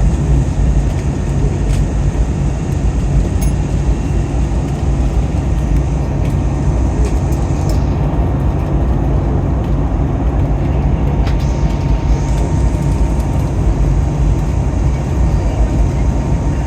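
Passenger-aircraft cabin noise in flight: a steady low rumble of engines and rushing air. A faint steady tone comes in about two-thirds of the way through.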